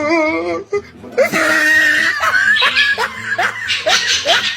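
Loud laughter: a wavering cry, then a long run of short rising 'ha' sounds, about two to three a second.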